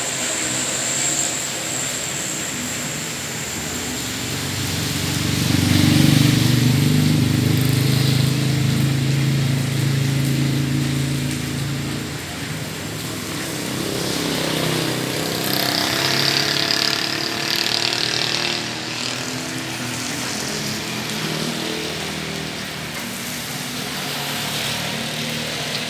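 Traffic passing through a road junction in the rain. An engine grows loud about five seconds in and fades by about twelve seconds, and a second vehicle passes with tyre hiss around sixteen seconds.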